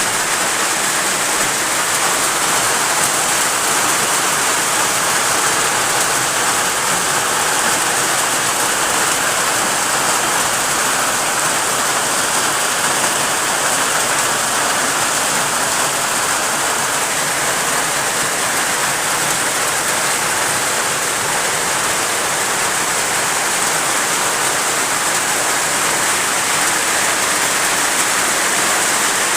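Rain falling steadily, an even dense hiss that stays the same throughout.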